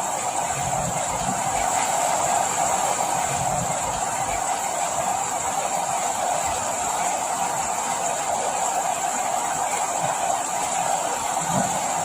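Rain falling steadily: an even hiss that does not let up, with a few soft low thumps under it.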